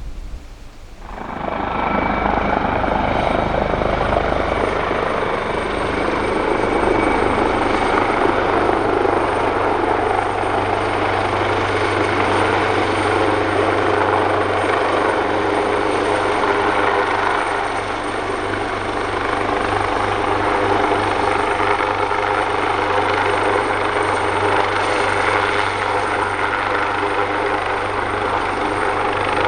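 AgustaWestland AW139 helicopter running, its two Pratt & Whitney Canada PT6C turboshaft engines and five-bladed rotor making a loud, steady noise with a thin high whine on top. The sound comes up about a second in and holds steady.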